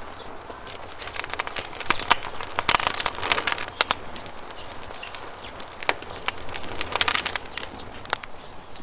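Campfire crackling and popping in clusters of sharp snaps, densest from about one and a half to four seconds in and again around seven seconds, over a steady rush of river water.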